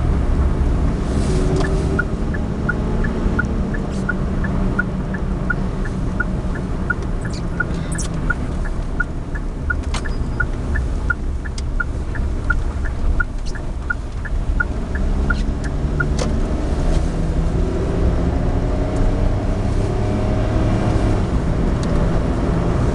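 Suzuki Alto 4WD kei car driving, its engine and road noise heard from inside the cabin, with the engine pitch drifting up and down. From about 2 to 16 seconds in, a regular light ticking runs at about two ticks a second.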